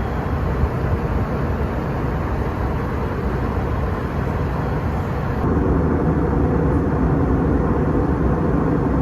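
Steady cabin noise inside an Airbus A321 in flight, the rushing of air and engines. About five and a half seconds in it becomes somewhat louder and deeper.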